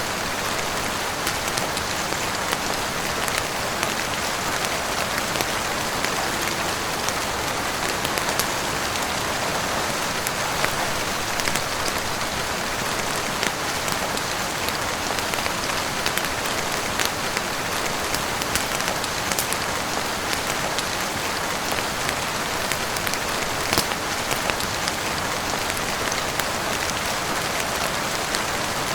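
Heavy rain falling steadily on a roof and windows: a dense, even hiss with many scattered sharp drop ticks.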